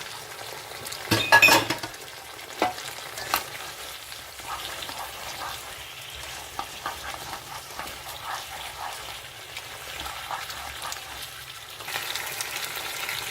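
Half-fried chicken pieces tipped into a hot pan of sauce with capsicum and onion and stirred in, sizzling steadily. A loud clatter about a second in, then spatula scrapes and clinks against the pan as it is stirred; the sizzle gets louder near the end.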